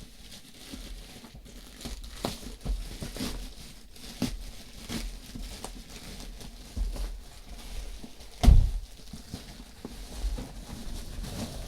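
Plastic parcel packaging being crinkled and torn open by hand, with irregular handling clicks and one louder knock about eight and a half seconds in.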